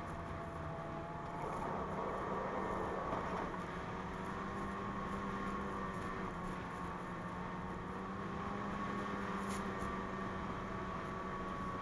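2017 Ski-Doo MXZ 600 Carb Sport snowmobile's two-stroke engine running steadily under way, a little louder from about a second and a half in.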